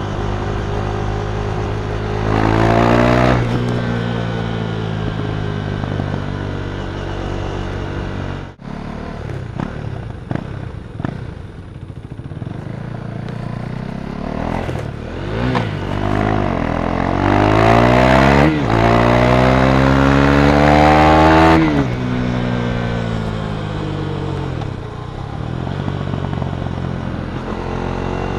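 KTM Duke 390's single-cylinder engine through an Akrapovic exhaust, running and revving. It blips up briefly about two seconds in. Later it accelerates hard up through the gears, its pitch climbing three times with short breaks at the shifts, then drops back as the throttle closes.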